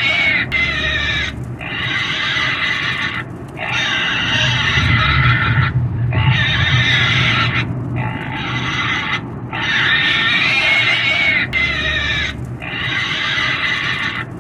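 A pig squealing and screaming in a run of about eight long, high, wavering cries, each one to two seconds long, with short breaks between them.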